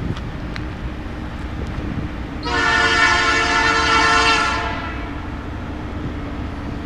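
Diesel locomotive air horn sounding one blast of about two seconds, a chord of several tones, over a steady low rumble.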